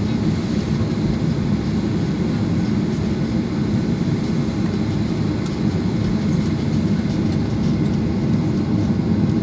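Steady low rumble inside a Boeing 737-800 cabin, its CFM56 jet engines running at low power while the airliner taxis before take-off.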